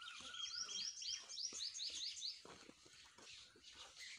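Faint birdsong: a bird repeats quick, high, rising notes, about five a second, for roughly two seconds, over a softer lower warble at the start.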